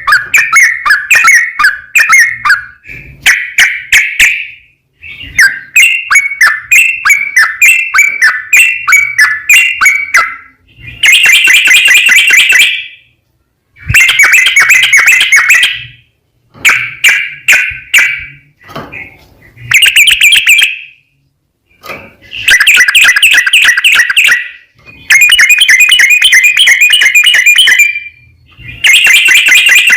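Yellow-vented bulbul (trucukan) singing loudly in long, fast chattering trills, its 'ropel panjang' song. Clicky rapid notes come first, then dense bursts a second or three long, separated by short pauses.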